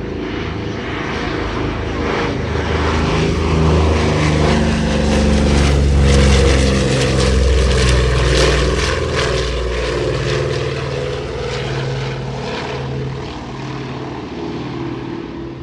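Douglas A-26 Invader's twin radial piston engines during a flyby. The propeller drone builds to a peak about six seconds in, then slowly fades as the bomber passes.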